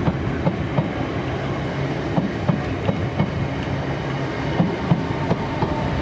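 A train passing close by, its steady rumble punctuated by the wheels' rhythmic clickety-clack, about three knocks a second.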